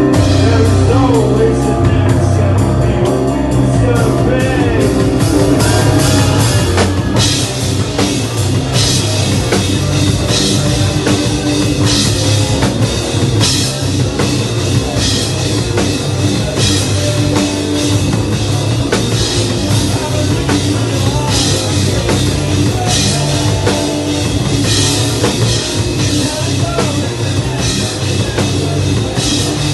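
Live hardcore band playing loud and full-on: distorted electric guitars and bass over a drum kit. About seven seconds in, the drums hit harder, with steady cymbal crashes.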